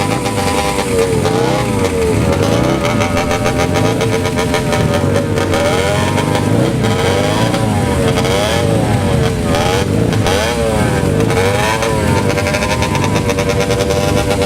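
A vehicle engine running, its pitch rising and falling again and again as the throttle is blipped, settling to a steady idle near the end.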